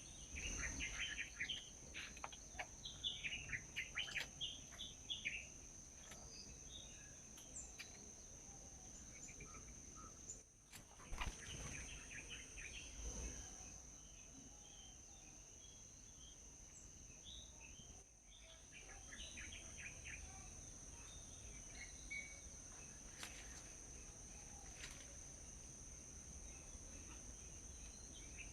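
Small birds chirping in quick bursts, busiest in the first five seconds and again around twenty seconds in, over a steady high-pitched insect drone.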